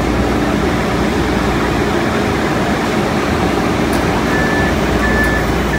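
MBTA Green Line light-rail train running through the subway tunnel: a loud, steady rumble and hum of wheels and motors. Near the end, a run of short, high electronic beeps, evenly spaced.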